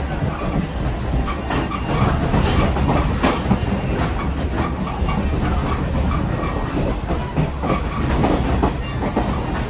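Passenger train rolling along the track, heard from aboard: a steady low rumble with irregular clicking and knocking of the wheels over the rails.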